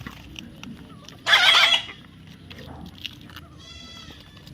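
A young parrot gives one loud, harsh screech a little over a second in, lasting about half a second. A fainter, shorter call follows near the end.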